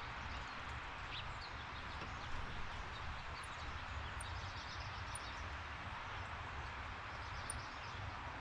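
Outdoor ambience: a steady hiss with a low rumble underneath, and a few faint, short, high bird chirps scattered through it.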